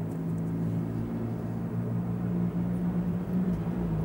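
Steady low hum of a motor vehicle engine running, its pitch drifting slightly, over a faint background of city noise.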